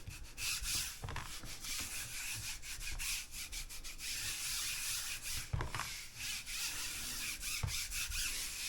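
Paper being rubbed by hand on a gel printing plate: a dry, scratchy rubbing made of many short strokes with brief breaks between them, and a couple of soft thumps.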